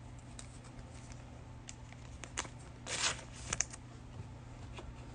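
Basketball trading cards being handled and flipped through: faint slides and small clicks, with a short swish about three seconds in.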